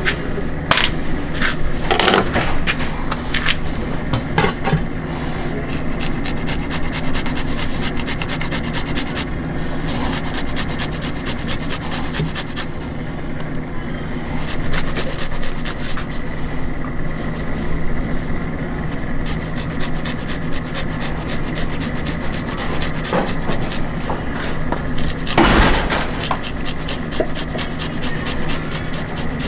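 Fast, rhythmic scraping or rubbing in stretches over a steady low hum, with a sharper knock near the end.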